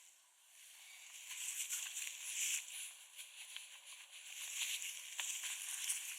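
Footsteps crunching in fresh snow, an uneven crunch roughly once a second, louder after the first second, with small crackles between steps.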